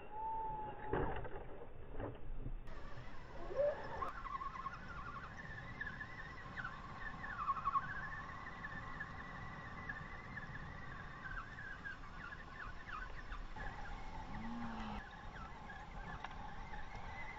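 Small electric motor and gearbox of a radio-controlled scale crawler truck whining as it drives, the pitch wavering up and down with the throttle, with a few knocks near the start.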